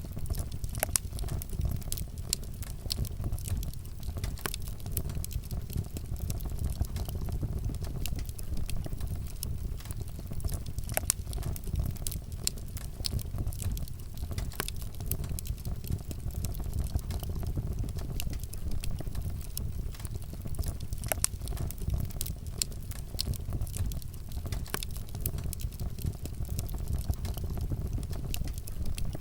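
Wood fire burning with a steady low rumble and irregular sharp crackles and pops from the burning wood.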